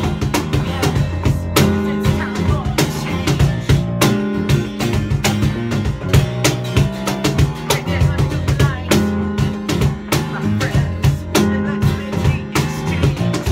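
A live rock band playing an instrumental passage with guitar and a drum kit keeping a steady beat, without vocals.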